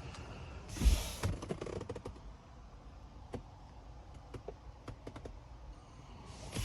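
A thump about a second in, followed by a run of light, irregular clicks and taps and a short rustle near the end, like things being handled inside a car.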